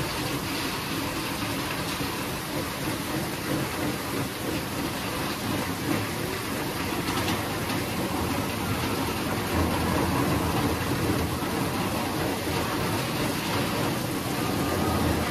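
Steady heavy rain falling, with a low rumble underneath that swells about two-thirds of the way through.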